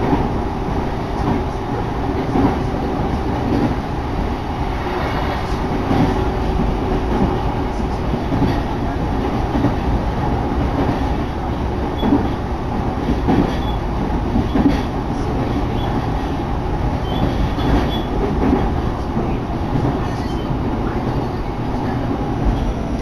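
Electric commuter train running between stations, heard from inside the car: a steady rumble with occasional knocks of the wheels over the rail joints.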